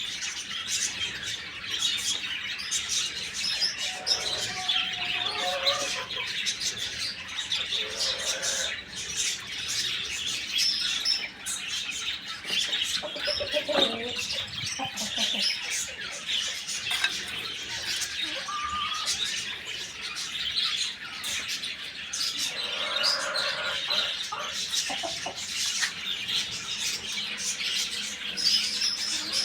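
A flock of small birds chirping continuously in a dense chorus, with a few lower, longer calls from other birds now and then.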